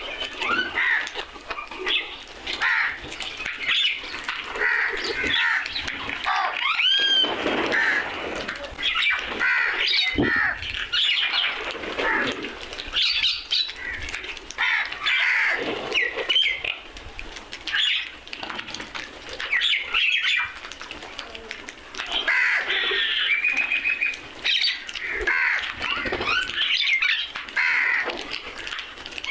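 Crows cawing continuously, many calls overlapping, with chirps of other birds mixed in.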